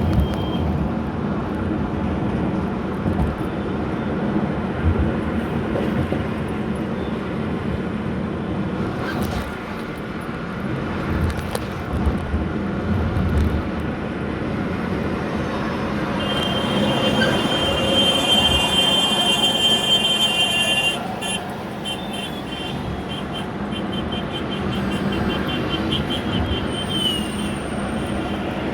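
Steady rumble of vehicle traffic, with a high-pitched whine of several tones held for about five seconds just past the middle.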